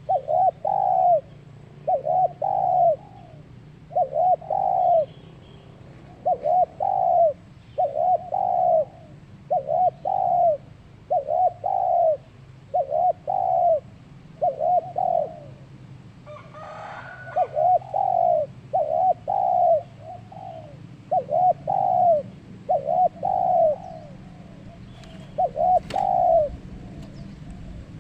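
Zebra dove (perkutut) cooing: a long series of short, rolling coos, about one a second. A brief rasping noise breaks in about two thirds of the way through.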